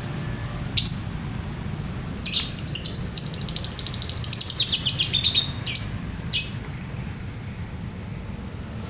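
A songbird singing: a couple of short high chirps, then about 2 seconds in a fast, rapid trilling phrase lasting around three seconds that slides down in pitch, followed by two more short chirps. A steady low rumble runs underneath.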